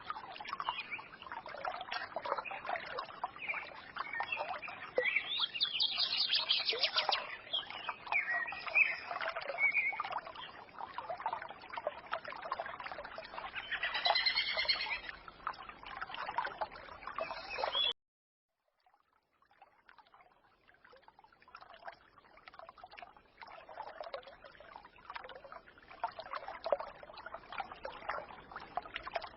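Small forest stream trickling, with songbirds singing over it in short bursts. About two-thirds of the way in the sound cuts out abruptly, then the trickling fades back in.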